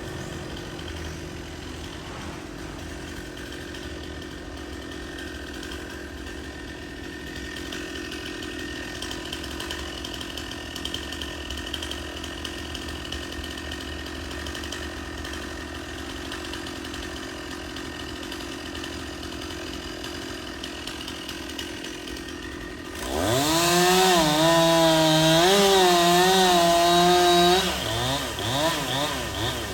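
Stihl two-stroke chainsaw idling steadily, then throttled up hard near the end to a high, slightly wavering whine for about four seconds. It is then let back down with a few short blips of the throttle.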